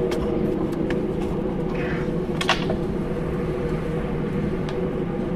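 Interior sound of a JR Hokkaido 789 series 1000 electric train car: a steady low rumble with an even hum from the onboard equipment and a few scattered clicks, the sharpest about two and a half seconds in.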